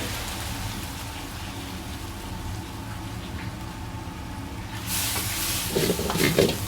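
Steady low rumble of a commercial kitchen's gas burner and exhaust. About five seconds in, food hits a hot wok with a loud sizzle. Near the end come several sharp metal clanks from stirring.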